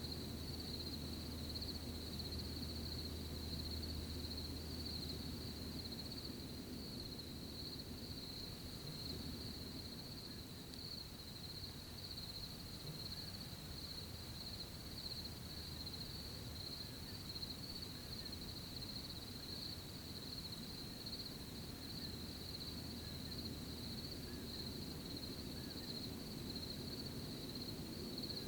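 Crickets chirping in one steady, unbroken high trill, over a low rumble of outdoor background noise.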